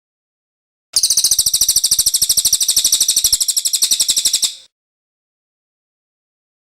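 A cililin bird singing one long, high, rapid trill, starting about a second in and lasting about three and a half seconds before cutting off.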